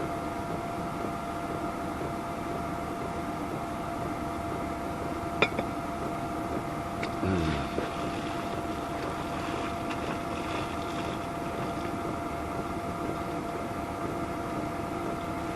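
Diesel heater running steadily, a constant whirring hum with a faint steady tone. A single sharp click about five seconds in and a brief sliding sound a couple of seconds later.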